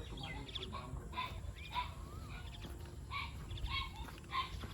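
Birds calling in many short, irregular chirps over a steady low background rumble.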